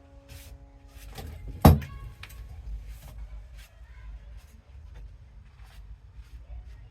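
A single sharp knock, as of a hard object set down or striking something, a little over a second and a half in, ringing briefly, with faint handling clicks and a low steady rumble.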